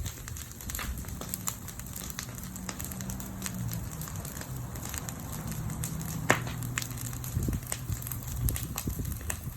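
Wood fire crackling with scattered sharp pops, one louder pop about six seconds in. A low steady hum runs underneath for most of it.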